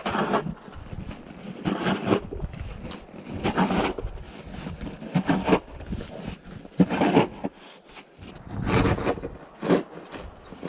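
Snow being cleared by hand with a shovel: repeated rasping scrapes and scoops through snow, one stroke about every one and a half to two seconds.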